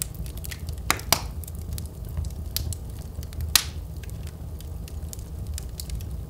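Wood fire burning in a fireplace: a steady low rumble of the flames with scattered crackles, and three louder pops, two about a second in and one about halfway through.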